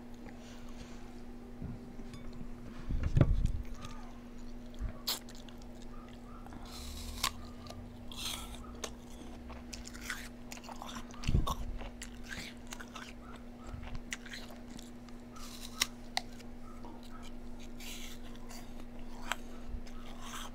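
A person chewing and biting food close to the microphone, with scattered crunches and mouth clicks. Two dull knocks come about 3 and 11 seconds in, over a steady low hum.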